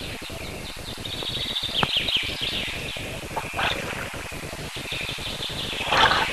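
A small bird twittering in quick trills over a steady hiss, then a brief splash near the end as a fish breaks the surface of the river.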